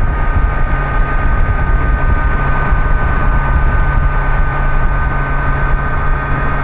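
Kawasaki Z900's inline-four engine running at a steady cruise, mixed with rushing wind and road noise, with a steady whine holding one pitch.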